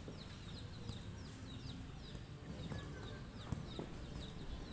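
A small bird chirping over and over: short falling chirps, about three a second. A few dull thuds of a football being kicked come in the second half.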